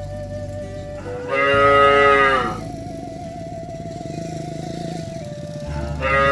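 Cows mooing: one long moo about a second in, lasting over a second and dropping in pitch as it ends, then a second moo starting near the end.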